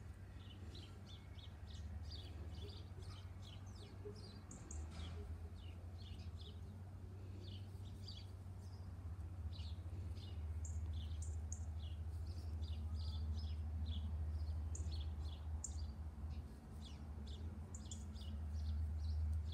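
Small birds calling, many short high chirps scattered throughout, over a steady low rumble.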